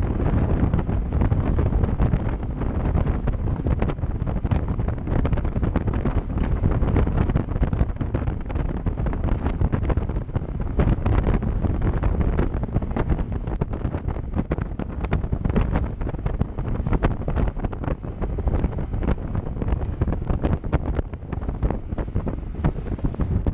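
Strong wind buffeting the microphone: a loud, steady low rumble broken by rapid crackling gusts.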